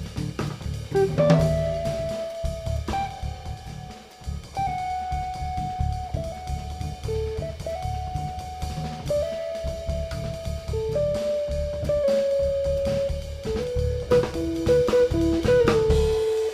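Instrumental trio of guitar, cello and drum kit playing. The drums keep a busy groove throughout, under a melody that moves through held notes lasting a second or two each.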